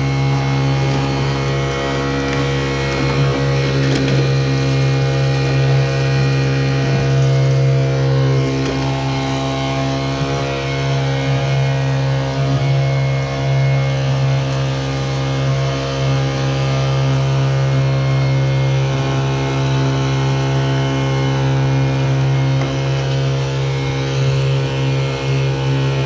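Small 35cc four-stroke gasoline engine of a leaf vacuum cart running steadily at constant speed.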